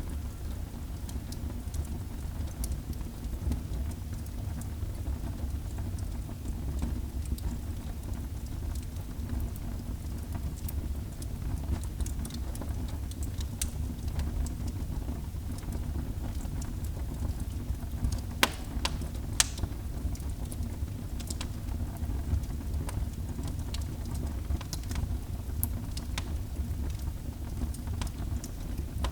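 Wood fire burning in a fireplace: a steady low rumble of flame with scattered sharp crackles, and two louder pops about a second apart just past the middle.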